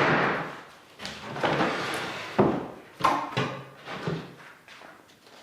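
Picture frame being forced off a nailed canvas: a run of sudden knocks, cracks and scraping rips, about six in five seconds, trailing off near the end.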